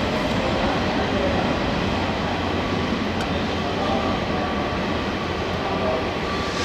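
Steady rumbling noise of a train, even throughout with no distinct knocks or events.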